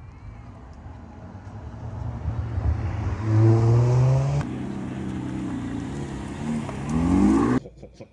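Car engine revving up, its pitch climbing about three seconds in and again near the end, then cutting off suddenly.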